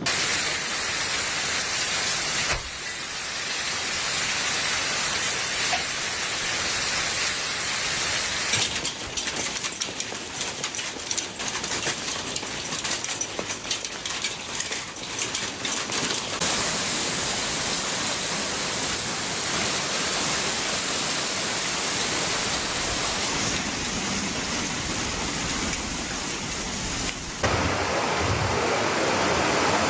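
Heavy rain and rushing water, a steady loud hiss. It changes character abruptly four times, with a patch of dense crackling patter in the middle.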